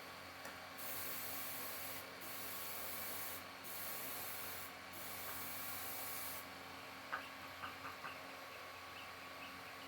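Stick-welding arc crackling and hissing on galvanized pipe, in four short runs with brief breaks between them. It stops about six seconds in, and a few light metallic taps follow.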